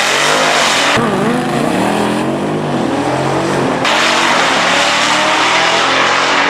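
Drag-racing vehicle engine revving hard, its pitch swinging up and down, with sudden changes about a second in and again near four seconds.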